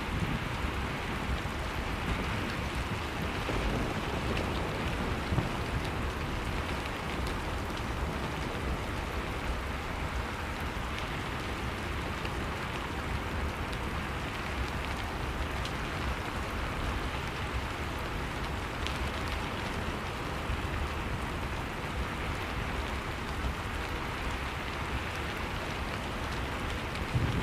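Steady heavy rain falling on a surface, an even patter of drops.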